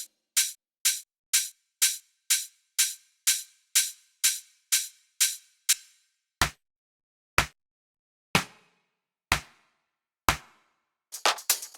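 Soloed electronic drum machine hits from a house beat, each followed by a reverb tail. For the first six seconds a bright percussion hit repeats about twice a second. After that, fuller hits with deep low end come about once a second, some with longer tails. Near the end the busier full drum pattern comes back in.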